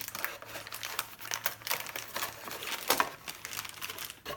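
Packaging crinkling and rustling as the product's parts are handled and unwrapped, with irregular small clicks; the loudest crackle comes about three seconds in.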